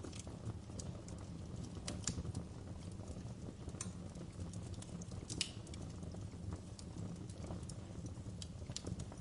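Wood fire crackling, with scattered sharp pops and snaps over a steady low rumble of burning.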